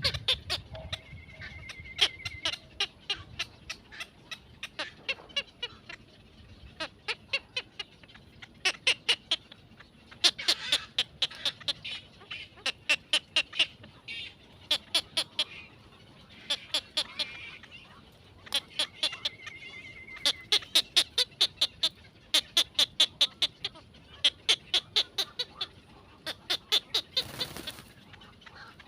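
Birds calling: quick runs of short, sharp chirps repeating in bursts, with a brief held note about two seconds in and again near twenty seconds in.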